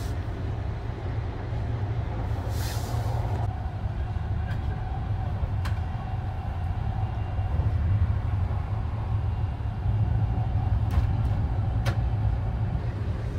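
Steady low rumble inside the compartment of the 285-series Sunrise Izumo sleeper train, with a short hiss about two and a half seconds in and a few light clicks later on.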